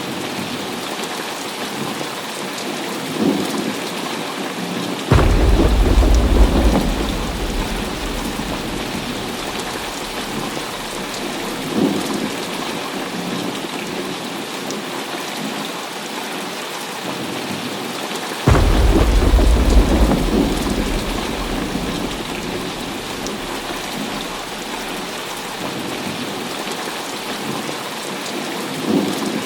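Heavy rain falling steadily in a thunderstorm, with two thunderclaps, about five seconds in and again about eighteen seconds in, each starting suddenly and rumbling deep as it fades over several seconds.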